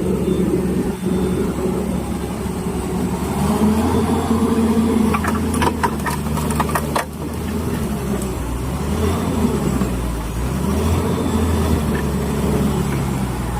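Volvo excavator's diesel engine running, its pitch rising and falling as it works under load, back in service after seven years standing idle. A quick cluster of sharp knocks comes about five to seven seconds in.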